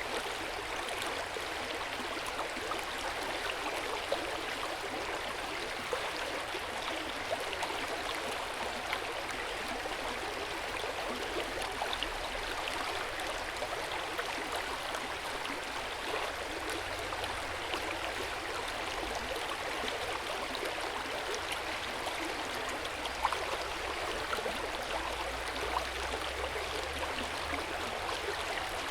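Hot spring water flowing steadily into an open-air bath, a continuous gentle splashing with small drips and plinks scattered through it.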